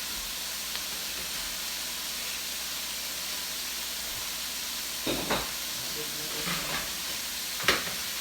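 Food frying in hot oil with a steady sizzling hiss. Sharp utensil knocks come about five seconds in, twice in quick succession, and once more near the end.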